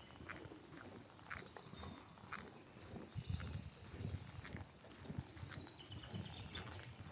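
Walking footsteps on a park path, about two steps a second, with small birds chirping and trilling over them.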